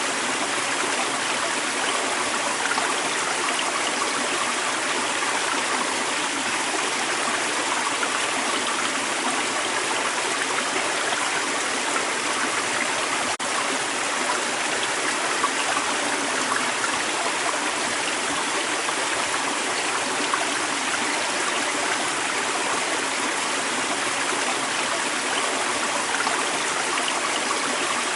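Creek water running over rocks, a steady, even rush with a gurgling texture.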